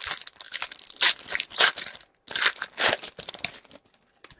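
A hockey card pack wrapper being torn open and crinkled by hand, in two bursts of rustling with a brief pause between them.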